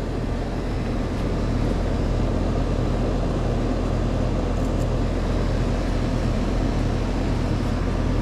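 Outdoor air-conditioning condensing unit running: a steady low hum from the compressor with the condenser fan's rush of air.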